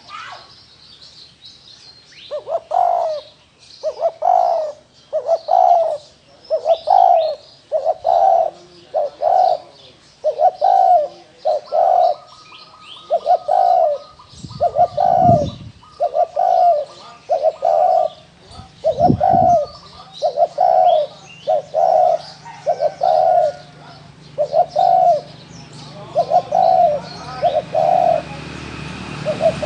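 Spotted dove cooing, a long run of short low coos about one a second, the bowing 'gù' coo of a wild-type bird. Faint chirps of smaller birds sound above it, and there are two low thuds midway.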